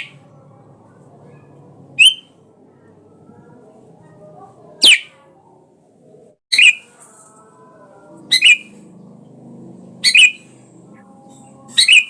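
Sooty-headed bulbul giving short, sharp calls, six of them at intervals of about two seconds, one a quick downward-sweeping note.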